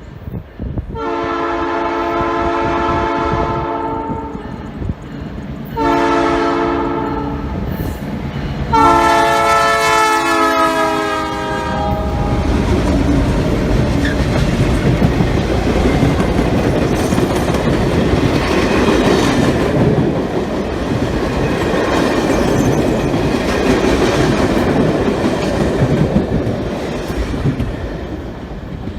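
Canadian Pacific locomotive's multi-tone horn sounding three blasts, long, shorter, then long, the last one dropping slightly in pitch. The train then rumbles past with its wheels clacking over the rail joints.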